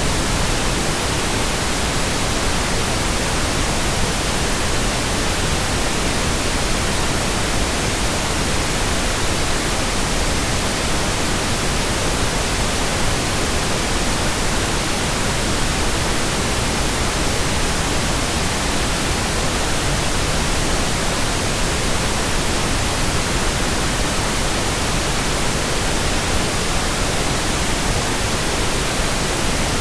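Steady synthetic white noise: an even, unchanging hiss across the whole range, with no breaks or events.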